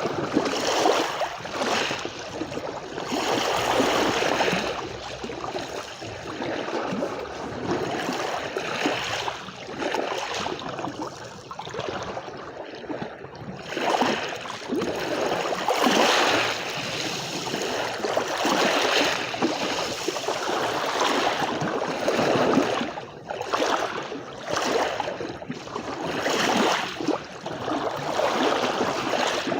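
Waves washing onto a shore, with a steady swishing wash that swells and fades every few seconds as each wave breaks and draws back.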